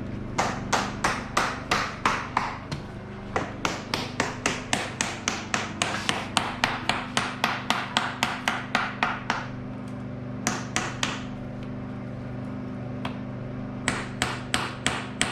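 Rapid light hammer taps, about three a second, in runs broken by short pauses: a hammer tapping out a homemade water pump gasket from sheet gasket material.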